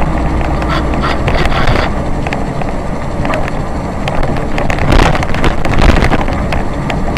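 Engine drone and road noise from a moving vehicle heard from inside, with wind on the microphone and scattered short clicks and rattles.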